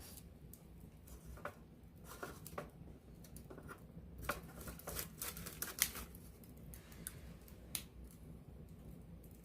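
Wood campfire burning with a low steady rumble and irregular crackles and pops, a small flurry of sharper pops about halfway through.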